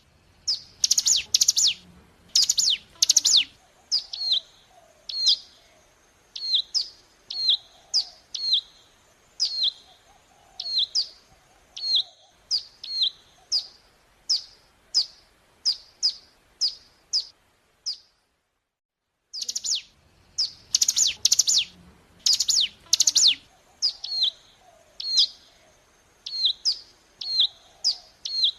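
Ciblek gunung song: sharp, high, falling chirps repeated about once a second, with quick runs of louder notes at the start and again just after a brief silent break about two-thirds of the way in.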